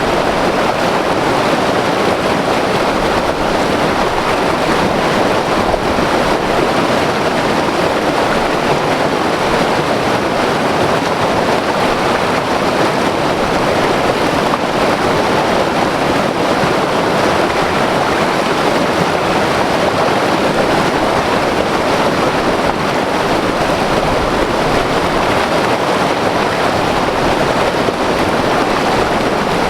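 White-water mountain river rushing over rocks: a loud, steady roar of turbulent water.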